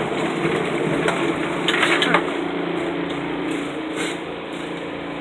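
Small portable washing machine running its wash cycle: a steady motor hum with water churning in the tub, and light rattling as the machine shakes a little.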